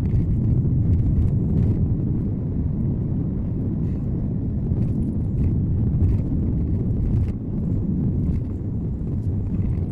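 Car driving, recorded by a dashcam inside the cabin: a steady low rumble of road and engine noise with faint scattered ticks.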